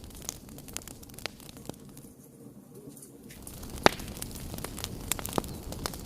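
Wood fire crackling, with frequent sharp pops over a low rumble of the flames. It dips quieter briefly around the middle, and one loud pop comes about four seconds in.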